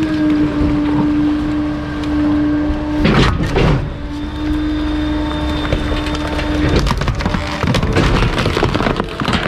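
Bulky-waste garbage truck's hydraulic compactor with a steady hum, broken about three seconds in by a couple of heavy crunches. After about seven seconds the hum stops and the load cracks and snaps as it is crushed.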